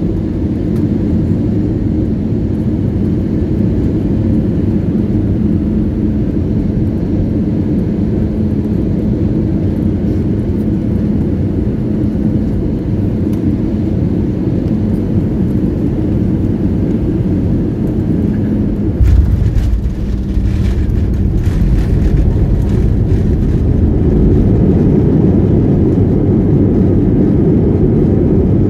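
Jet airliner heard from the cabin on final approach, a steady engine and airflow drone. About two-thirds of the way in there is a sudden thud with a few seconds of rattling as the wheels touch down on the runway. A louder, building rumble follows as the aircraft rolls out and decelerates.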